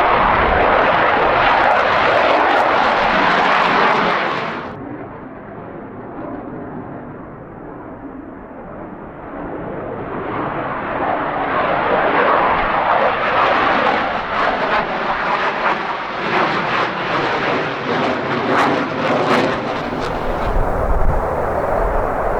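Loud jet aircraft engine noise that drops away abruptly about four and a half seconds in, then builds again from about ten seconds with a crackling, ripping edge. A deep rumble takes over near the end.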